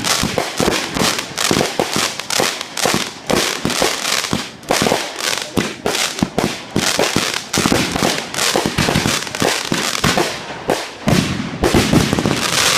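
Fireworks going off in a dense, unbroken barrage of bangs, several a second.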